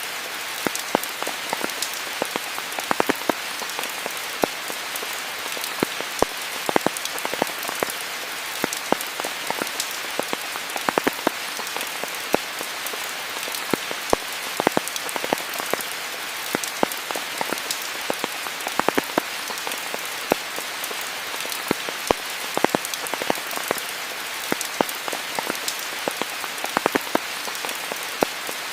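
Steady rain with many individual drops striking close by as sharp, irregular ticks over an even hiss of rainfall.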